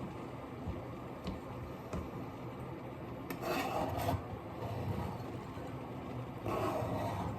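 Rubbing and scraping during kitchen food preparation, with two louder scraping passes, one about three seconds in and one near the end.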